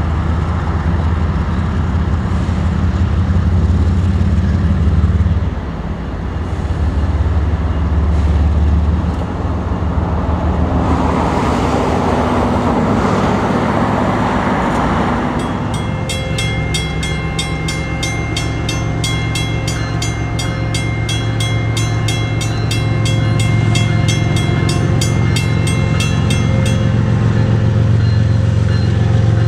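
GE diesel locomotives leading a Canadian Pacific freight rumble past, with a heavy low engine sound. Past the middle, a railroad crossing bell rings rapidly over the train noise for about ten seconds, then stops near the end.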